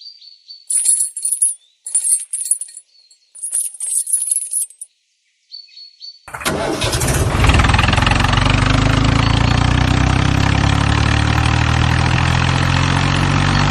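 A few short, high hissing bursts, then about six seconds in an engine sound starts up and runs steadily with a loud low rumble: the running sound of the mini tractor.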